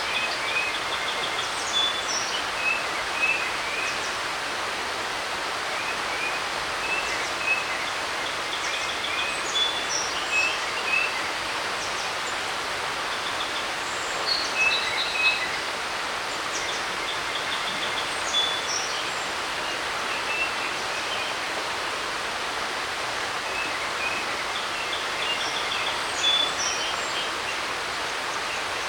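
Creek running as a steady rushing hiss, with a songbird singing short phrases of chirps and trills over it, several times.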